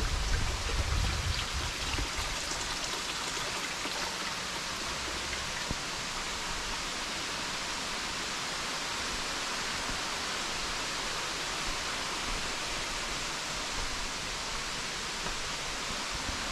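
Steady, even rush of flowing water, a hiss with most of its sound in the upper range. A low rumble dies away in the first second or two.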